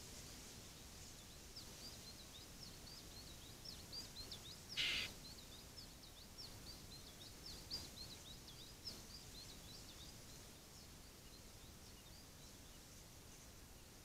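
A small songbird chirping: a long run of rapid, high, short notes that fades out about ten seconds in, with one brief louder sound about five seconds in, over a faint steady hiss.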